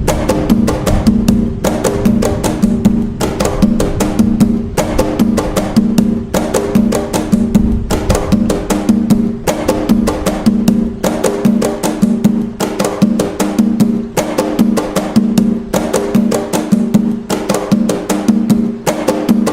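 Atabaque hand drums playing the nagô rhythm (toque nagô) of Umbanda: a steady, unbroken repeating pattern of fast strikes with a deep pitched drum tone pulsing through it.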